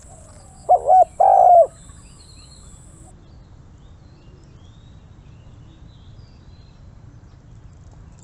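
Zebra dove cooing: one phrase about a second in, a short wavering coo followed by a longer coo that drops in pitch at the end.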